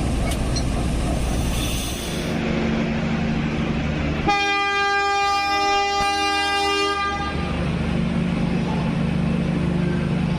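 Train horn sounding one long, steady blast of about three seconds, starting about four seconds in, over the steady rumble of a train.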